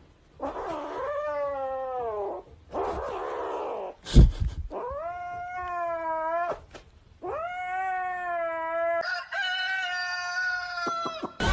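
Domestic cat yowling: four long, drawn-out calls, each one falling in pitch at its end, the last the longest. A sharp knock sounds about four seconds in.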